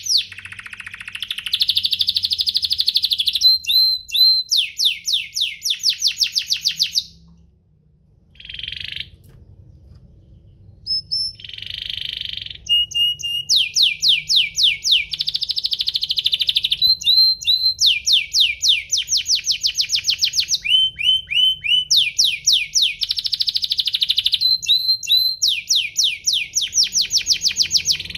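Domestic canary singing: long, fast trills of repeated high, quickly falling notes, mixed with short buzzy rolls. The song breaks off for a moment about seven seconds in, restarts with a few short phrases, and then runs on in long trills.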